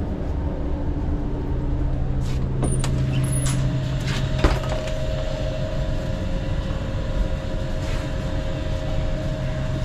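Steady low mechanical hum of a stationary train, with a few knocks and clatters about three to four seconds in and a thin steady whine joining about three seconds in.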